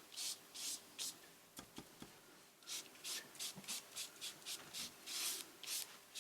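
Brush strokes spreading glue over collage paper: short swishing rubs, a lull about a second in, then quicker strokes, about three a second, from around three seconds in.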